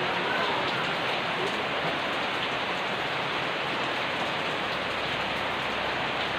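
Steady rain falling, an even, unbroken patter of drops.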